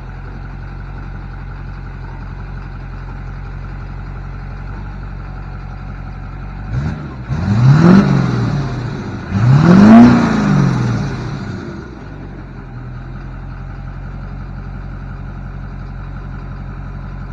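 Duramax diesel pickup engine idling, then revved twice in quick succession, each rev climbing and falling back, before settling to idle again.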